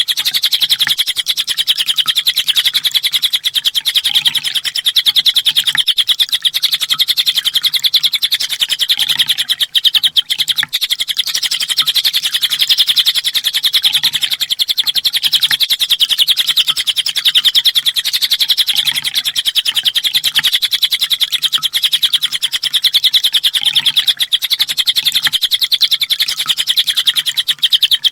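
Kolibri ninja sunbird singing a continuous, very rapid high trill without pause, the unbroken 'full tembakan' song used as masteran for training songbirds.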